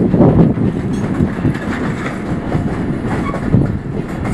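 Tank wagons of a long freight train rolling past close by at about 31 km/h: steady rumbling with a repeated clatter of wheels over the rail joints.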